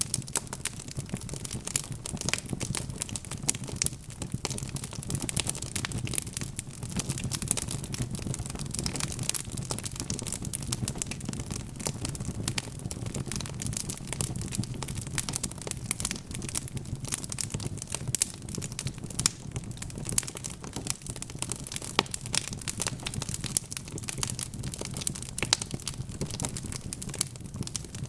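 Wood fire burning in a fireplace: dense, irregular crackling and popping of burning logs over a low, steady rumble of flames.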